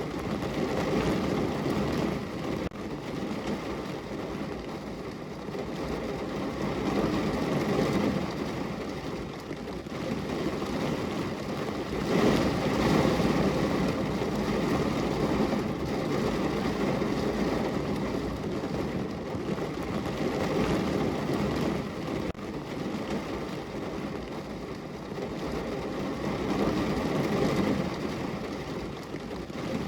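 Heavy rain drumming on a car's roof, heard from inside the car: a steady, dense patter that swells and eases in waves.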